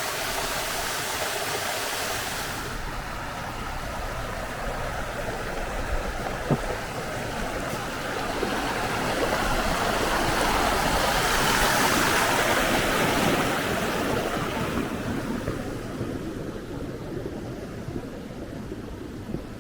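Rushing water of a mountain waterfall and its stream: a steady hiss that shifts about three seconds in, swells louder around the middle, then eases toward the end.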